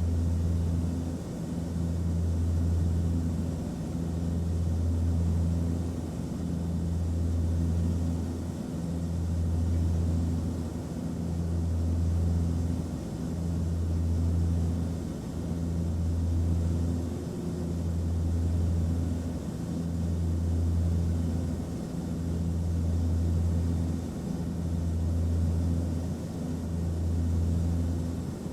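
Aeroplane cabin noise heard from inside: a low engine drone with a faint rush of air, the hum swelling and fading about every two seconds.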